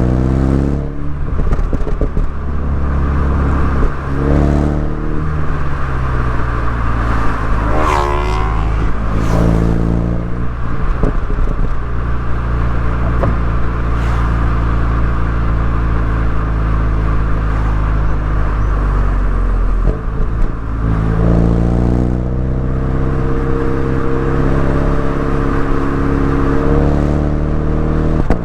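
MINI Cooper S engine and exhaust under way on a winding road: the revs climb and drop several times with gear changes, hold steady for several seconds in the middle, dip about twenty seconds in, then climb again near the end.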